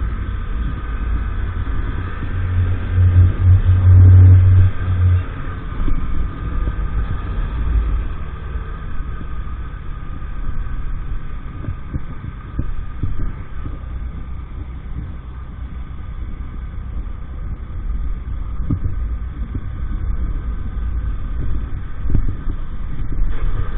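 EAYS Pro 50cc moped engine running while riding, with wind rushing over the microphone; the engine is loudest for a few seconds near the start.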